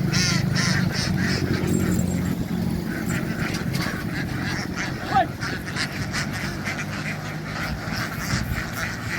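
A large flock of domestic ducks quacking continuously, many short calls overlapping, over a low steady hum that fades after the first few seconds.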